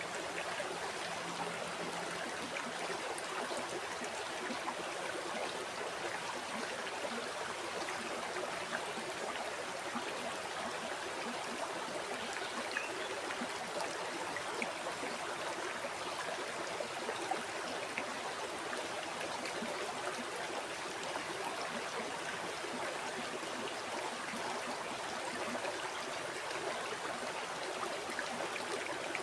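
River water flowing over rocks: a steady rushing with small splashes and gurgles throughout.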